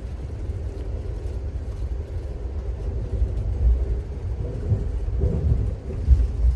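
Low, steady rumble of a moving Amtrak passenger train car rolling along the track, with a faint steady hum over it.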